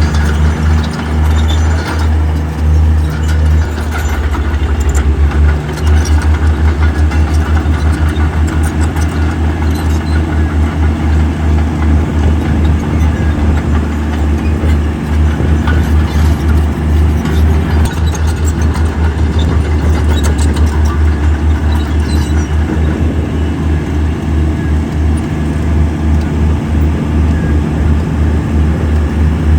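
Diesel engine of heavy earthmoving machinery running, a low rumble that pulses fast and evenly, with scattered clicks and clanks.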